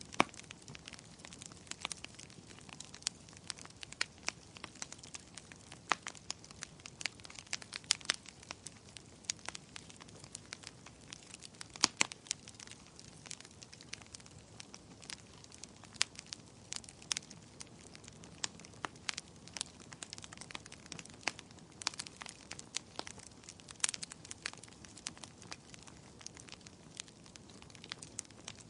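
Wood fire in a fireplace crackling, with frequent sharp, irregular pops over a faint low hiss of the flames; the loudest pops come just after the start and about twelve seconds in.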